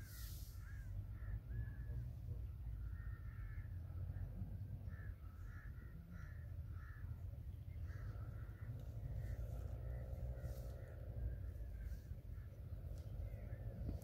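Birds calling repeatedly, short arched notes again and again, over a steady low rumble.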